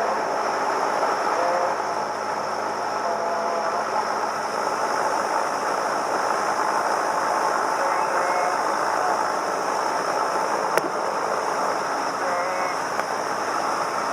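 Cessna 172M's four-cylinder Lycoming engine running steadily, heard from inside the cockpit, with faint voices in the background and one sharp click about eleven seconds in.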